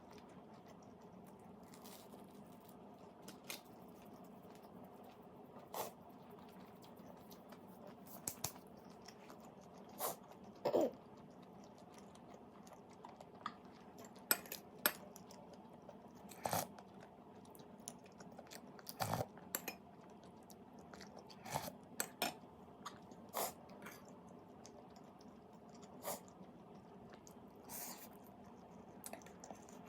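Close-miked chewing and crunching of food, with irregular sharp crunches and clicks every second or two over a steady low background hum.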